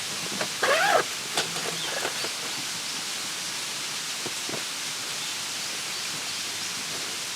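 Outdoor ambience with a steady hiss, a short bird call about a second in, and a few light knocks.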